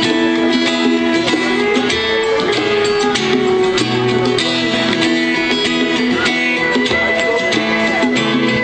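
Instrumental song intro led by strummed guitar, with steady chords and a regular strumming rhythm before the vocal comes in.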